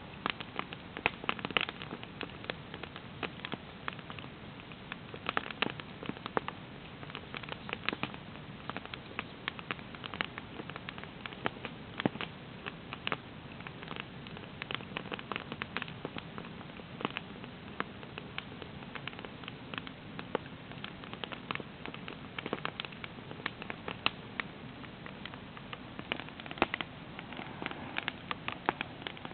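Wood campfire burning, with irregular crackles and pops over a steady hiss.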